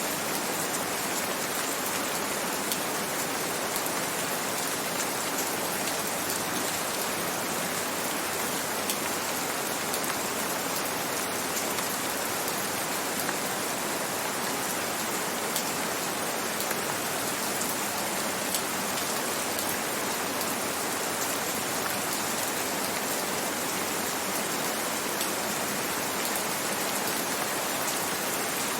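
Steady gentle rain falling, an even hiss of many fine drops.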